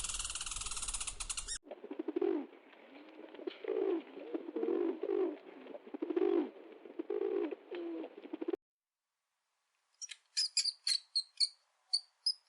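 A pigeon or dove cooing, a run of repeated low coos lasting several seconds. Just before it a frog chorus cuts off, and after a short silence a quick series of short high chirps begins near the end.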